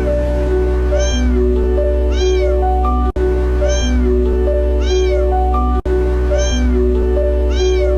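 A cat meowing over and over, about six evenly spaced meows, each rising then falling in pitch, over background music.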